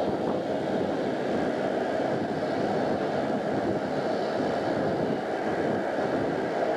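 Diesel-hauled passenger train approaching: a steady, even rumble with no horn and no distinct wheel clicks.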